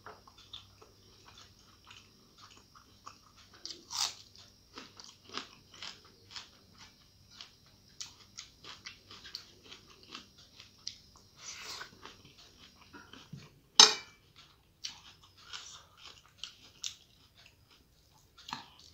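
Close-miked chewing and wet mouth sounds of a person eating rice and curry by hand, with many short smacking clicks and one sharp, louder click about 14 seconds in.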